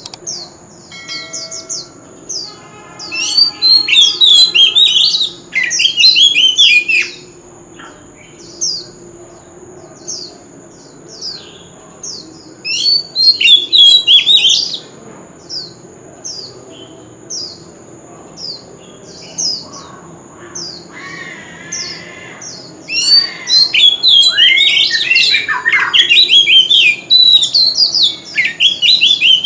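Oriental magpie-robin singing in three loud bouts of rapid, varied whistles and harsh notes, with short falling call notes repeated between the bouts. A faint steady high tone runs underneath.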